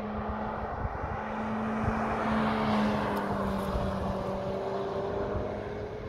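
Car driving past on a race circuit: the engine gets louder to a peak about two to three seconds in, then fades with its note dropping a little as it moves away.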